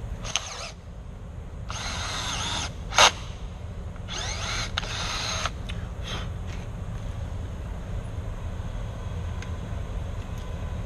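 A power drill runs in three short bursts of a second or so each, with a whining motor, as it works on the deadbolt installation in a metal door. A single sharp, loud clack comes about three seconds in.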